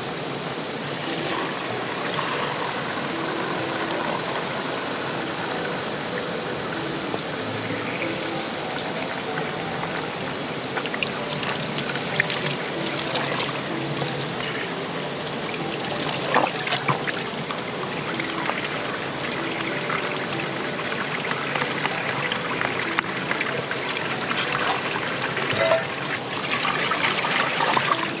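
A shallow river flowing and trickling steadily, with a few sharp clicks around the middle.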